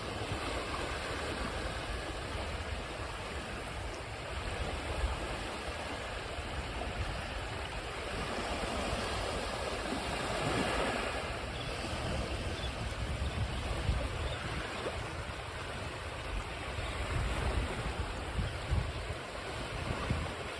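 Ocean waves washing ashore in a steady hiss, one wave swelling louder about halfway through, with a low rumble of surf and wind buffeting the microphone now and then.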